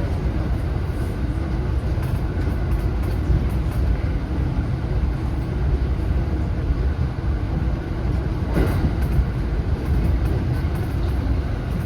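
JR West 227-series electric train running along the line, heard from inside the front car: a steady low rumble of wheels on rail, with a single brief knock about eight and a half seconds in.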